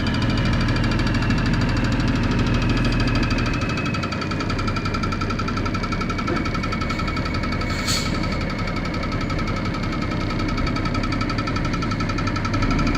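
Ford boom truck engine running steadily, with a high whine over it that drops slightly in pitch over the first few seconds; a single sharp click about eight seconds in.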